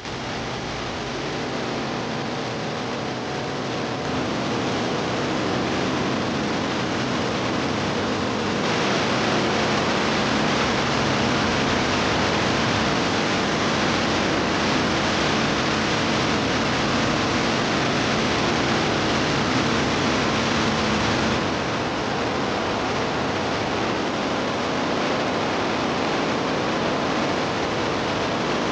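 Steady rushing noise, stepping louder about nine seconds in and a little quieter about twenty-one seconds in.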